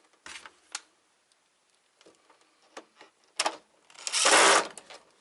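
Plastic housing parts of an APC Back-UPS RS 900 being handled: a few light clicks and taps, then a loud rub about half a second long a little after four seconds in.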